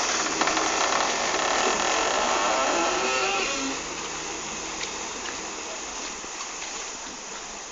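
A boat engine running under a steady rushing noise of wind and water, which drops in level about four seconds in. Faint voices are heard in the first half.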